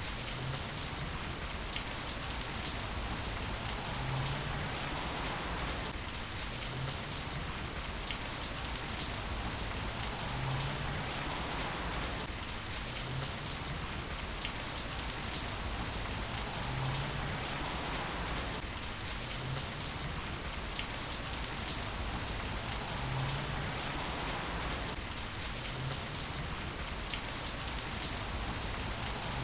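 Heavy rain falling steadily, with scattered drop ticks. The same few seconds repeat about every six seconds, as in a looped rain recording.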